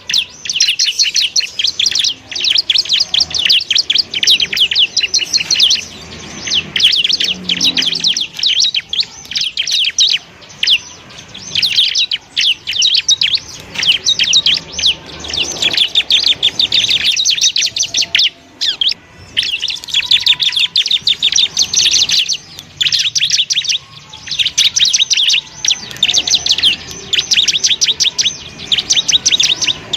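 Ciblek (bar-winged prinia) singing a long, rapid, high-pitched trilling song in fast runs of notes, broken only by short pauses.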